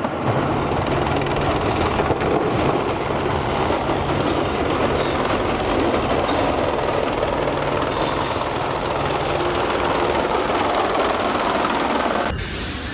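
Train running: a steady, loud rumble of wheels and engine with a low steady hum. It cuts off abruptly near the end.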